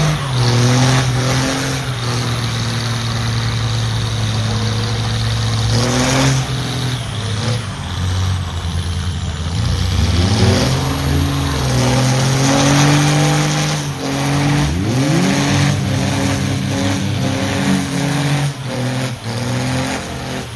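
Truck engines running loud and revving, with two rising sweeps in pitch, about halfway and three quarters through, as they accelerate.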